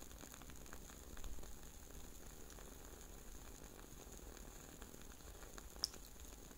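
Faint, soft crackling of close-miked chewing, many small wet ticks with one sharper click near the end.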